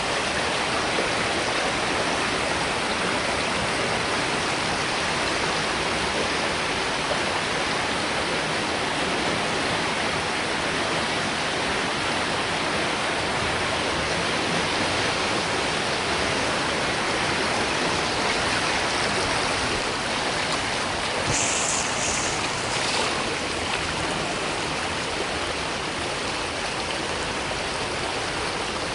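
Storm-swollen river rushing fast and hard, a steady dense roar of flowing water. Two brief higher hisses stand out about two-thirds of the way through.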